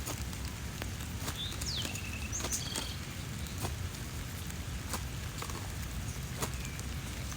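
Rain pattering, with scattered sharp drop ticks and a low rumble underneath. A small bird calls a few times in the first half: a short falling whistle and quick chirps.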